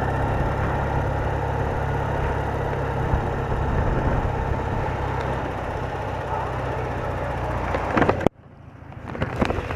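BMW R80RT's air-cooled boxer twin running steadily under way, with wind and road noise over it. A little after eight seconds the sound cuts off abruptly, then returns quieter and builds up again.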